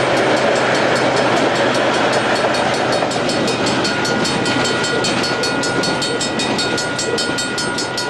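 A train running by: a steady, loud rumble with quick, regular clicking, easing off slightly towards the end. A thin, steady high tone comes in about four seconds in.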